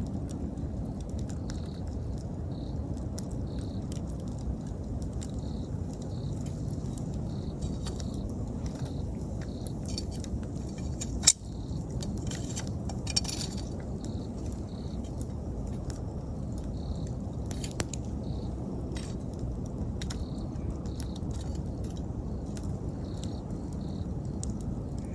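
Wood fire crackling, with scattered small snaps and one sharp loud pop about eleven seconds in, over a low steady rush of the flames. An insect chirps in the background: short high chirps repeating at a regular pace.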